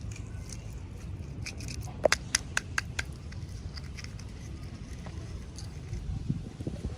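Small clicks and light scraping from hands handling miniature toys and their plastic packaging, with a quick run of about five sharp clicks between two and three seconds in.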